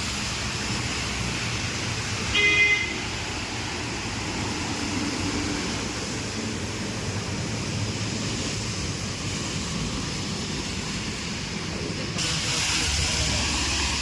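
Steady street and traffic noise, with a short vehicle horn toot about two and a half seconds in, the loudest sound. A brighter hiss swells in about twelve seconds in.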